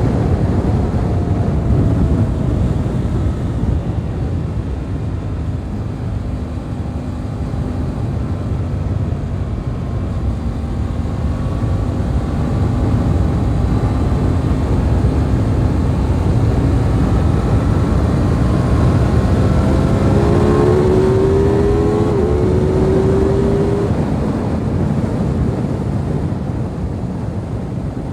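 Aprilia RS 660 parallel-twin engine running at speed under heavy wind rush, its pitch slowly rising and falling with the throttle. A clearer, stronger engine note stands out for a few seconds about twenty seconds in.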